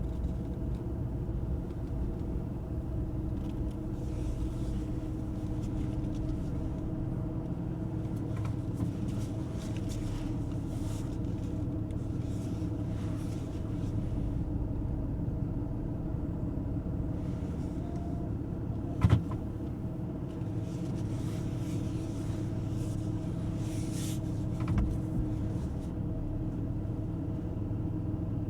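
The Ram 2500's high-output 6.7-litre Cummins inline-six turbodiesel runs steadily under way, with a low rumble of road noise. One sharp knock about two-thirds of the way through.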